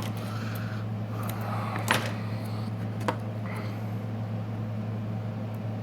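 Steady low hum of a fan or motor running, with light rustling, a sharp click about two seconds in and a smaller click about a second later.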